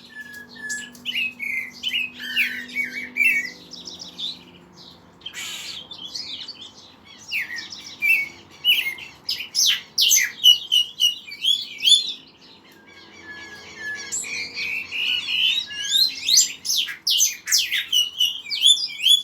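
Several songbirds singing together, with rapid chirps, trills and sweeping notes that overlap and thin out briefly a little past the middle. There is a short burst of noise about five seconds in.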